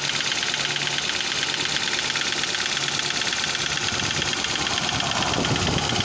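Toyota Camry V50's 2AR-FE 2.5-litre four-cylinder engine running steadily with a fast, even knocking tick, the knock whose cause the owner is asking about.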